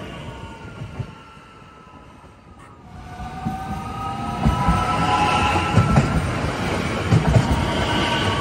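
A red DB Regio electric multiple unit's sound fades away. Then a second one approaches and passes close by, growing loud, with several high electric whines from its traction drive gliding in pitch over the rolling noise. Its wheels thud over the rail joints again and again as the cars go by.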